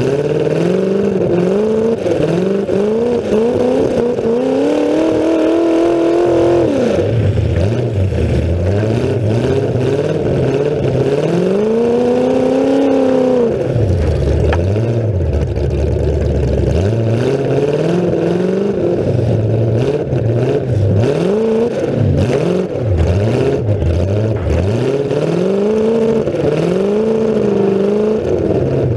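Demolition derby car's engine running through open exhaust stacks that poke up through the hood, revving up and falling off again and again. It makes two longer climbs in pitch, about four and about eleven seconds in, and each one drops away sharply.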